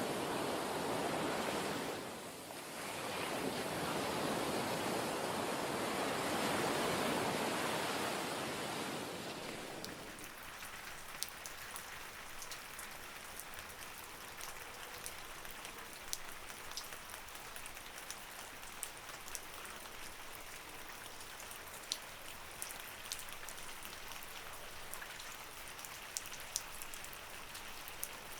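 Waves washing in, rising in two swells. About ten seconds in this gives way to a steady light rain, with many sharp single drops ticking.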